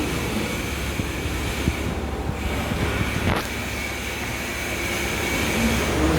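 Steady mechanical noise around a pull-out tissue folding machine: a low hum under an even hiss that briefly drops out about two seconds in, with a few light clicks.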